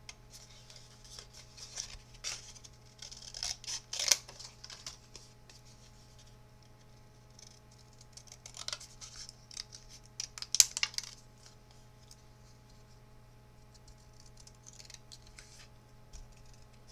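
Scissors cutting paper sails from white cardstock: two spells of quick snips and paper rustle, the first about two seconds in and the second about eight seconds in.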